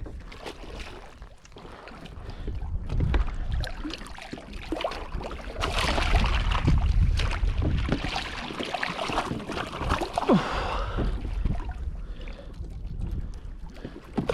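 Water splashing and sloshing at the side of a kayak, with scattered knocks and clicks from handling gear, loudest in the middle of the stretch.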